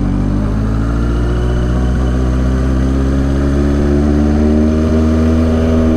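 A 1983 Suzuki GS1100E's air-cooled inline-four engine pulling under way, its pitch rising steadily as the bike accelerates, then levelling off near the end.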